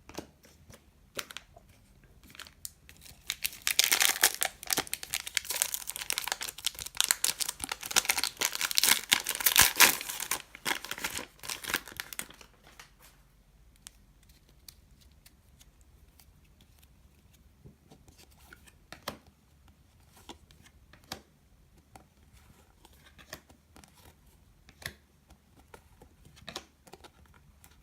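Trading card pack wrapper being torn open and crinkled for about ten seconds, from a few seconds in, followed by faint scattered clicks of cards being handled.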